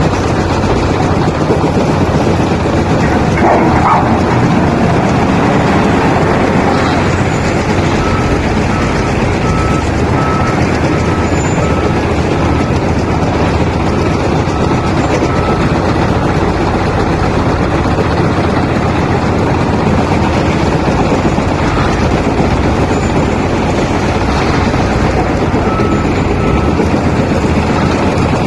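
Wheel loader's diesel engine running steadily and loudly as it works, with a reversing alarm beeping in short, evenly spaced tones for several seconds in the middle and briefly again near the end.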